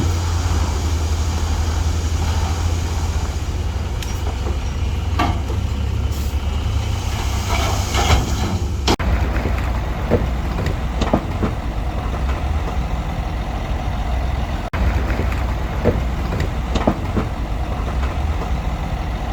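Heavy diesel earthmoving machinery running with a steady low rumble, with scattered sharp clanks and knocks and a short hiss about eight seconds in.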